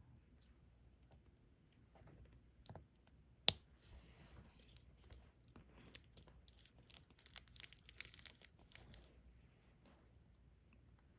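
Faint small plastic clicks and rattling from diamond painting: the applicator pen and resin drills. One sharp click comes about three and a half seconds in, and a quick patter of tiny clicks with a light rustle follows between about seven and nine seconds.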